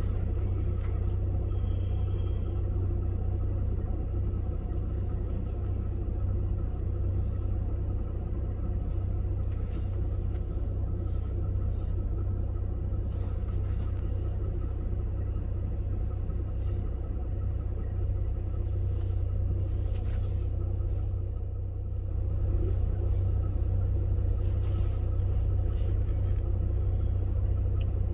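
Steady low rumble with a few faint clicks; it is not thunder, since the storm is too far away for thunder to be heard.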